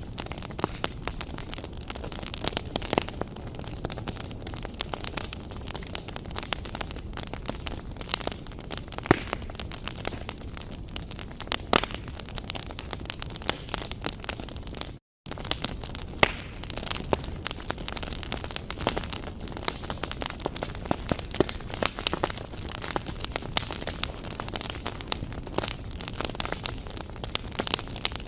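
Wood fire in a fireplace crackling and popping with irregular sharp snaps over a steady hiss; the sound drops out for a split second about halfway through.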